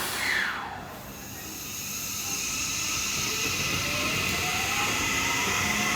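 Seibu 30000 series (7th batch) train's Hitachi IGBT-VVVF inverter and fully enclosed induction motors whining as it pulls away. Over a steady hiss, the pitch rises steadily through the second half as the train accelerates, after a brief falling tone right at the start.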